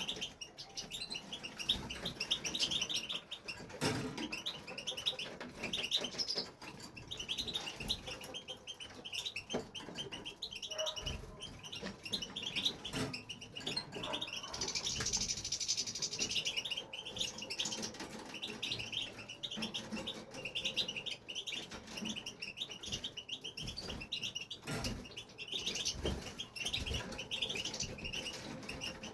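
European goldfinch singing a long, unbroken twittering song of quick chirping phrases, with a brighter, higher passage about halfway through. Scattered short knocks and flutters are heard as well.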